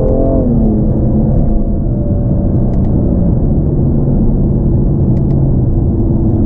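BMW M235i's turbocharged 3.0-litre inline-six running: in the first second the revs fall, then it settles into a steady idle.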